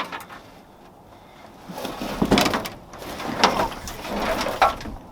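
Truck cab floor carpet being pulled and dragged out: three rough scraping, rustling pulls, about two, three and four seconds in.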